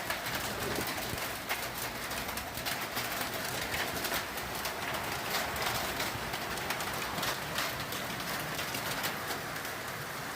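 Heavy rain falling with hail: a steady hiss of rain dotted with many sharp ticks of hailstones striking hard surfaces.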